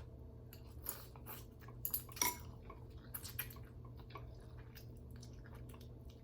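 Quiet eating of ramen noodle soup: scattered light clicks and scrapes of utensils against the bowl, mixed with chewing, loudest about two seconds in, over a steady low room hum.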